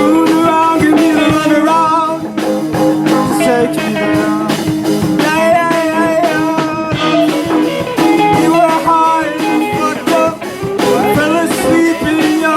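Live rock band playing, with electric guitar over a steady sustained low note and bending melodic lines.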